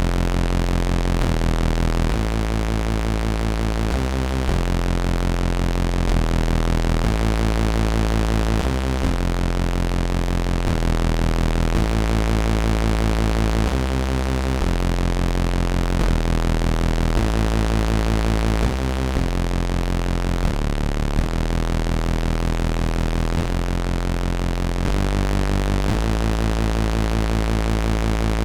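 Behringer JT-4000M synthesizer playing a factory preset as a repeating bass-heavy sequenced pattern, with the notes changing every second or so.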